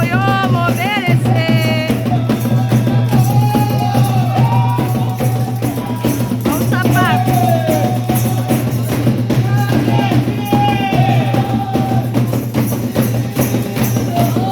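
Candomblé ritual music: atabaque hand drums beating a dense, steady rhythm, with a metallic or wooden percussion accent and singing voices over it.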